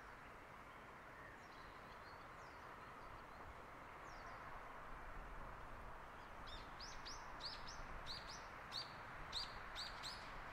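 A songbird calling: a few faint high calls, then from about six seconds in a quick series of short, high chirps, about two a second, growing louder. Under it runs a steady outdoor background hiss.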